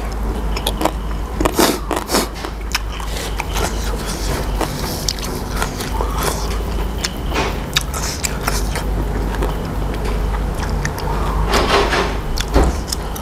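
Close-up mouth sounds of a man chewing a mouthful of raw beef koi with crisp raw vegetables: irregular wet smacks and crunches, many a second, over a steady low hum.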